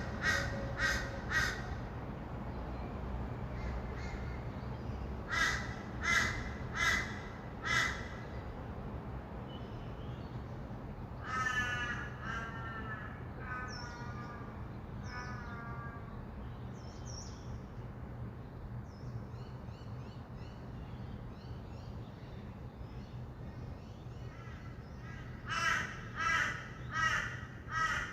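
Bird calling in runs of four short calls about two-thirds of a second apart, three times, with a longer wavering call in the middle and faint high chirps after it. A steady low rumble of distant city traffic runs underneath.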